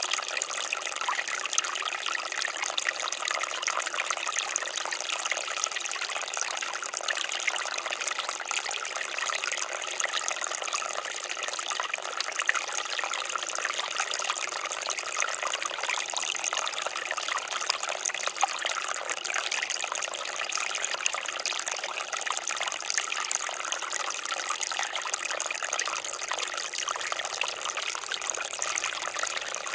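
Water fountain splashing: a steady, even patter and trickle of falling water with no pauses.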